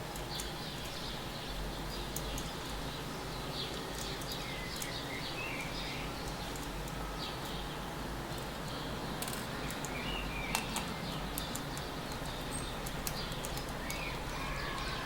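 Small birds chirping in short calls scattered through a steady background hiss, with many small sharp clicks.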